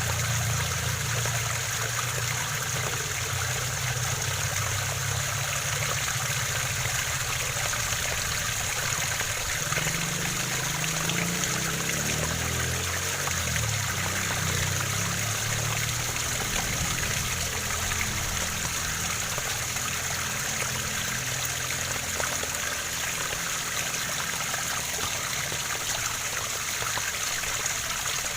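Waterfall running steadily: a continuous hiss of falling, splashing water with a low rumble underneath.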